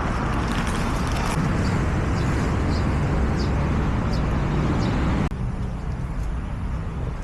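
Steady rumbling noise of road traffic, with a few short high chirps in the middle. It drops suddenly to a quieter background about five seconds in.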